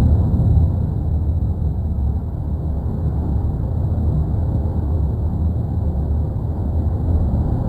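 Steady deep rumble of the erupting Cumbre Vieja volcano on La Palma, a continuous low roar without separate blasts.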